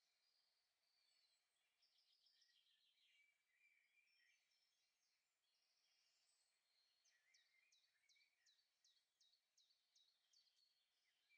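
Near silence with very faint woodland birdsong: scattered high chirps and warbling, then a run of short, repeated down-slurred notes, about two a second, in the second half.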